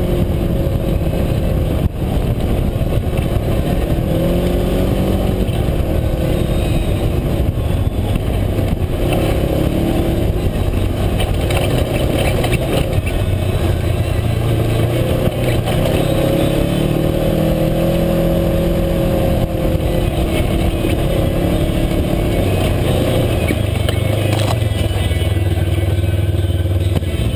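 UTV engine running under way on a trail ride, its pitch rising and falling again and again as the throttle is worked.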